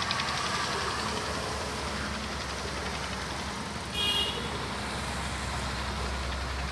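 Steady low rumble of motor traffic, with a short high-pitched horn toot about four seconds in.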